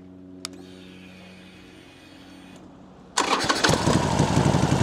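A faint low hum and a single click, then about three seconds in the Harley-Davidson Sportster 1200's V-twin engine starts and runs loudly.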